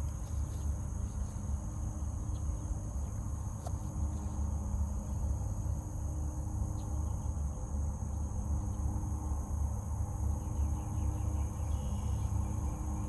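Outdoor ambience: a steady, high-pitched drone of insects over a constant low rumble.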